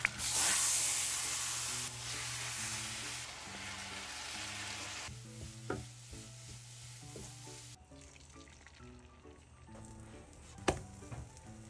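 Food sizzling in a hot frying pan. Marinated bulgogi meat hits the pan with a loud sizzle, strongest for the first two seconds and easing off, then julienned carrots sizzle more softly as they are stir-fried in oil with a wooden spatula. The sizzle dies away about two-thirds of the way in; soft background music plays underneath, and there are two sharp knocks, one in the middle and a louder one near the end.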